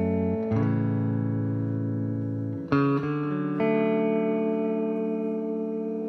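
Guitar chords ringing in a song's instrumental intro, with a new chord struck three times.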